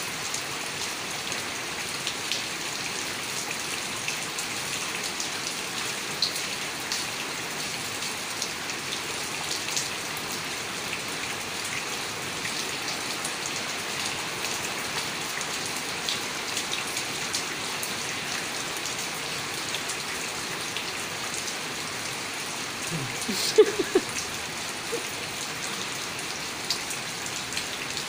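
Steady rain falling, with many small drop ticks on hard surfaces. Late on, a brief voice and a sharp knock stand out above it, the knock the loudest sound.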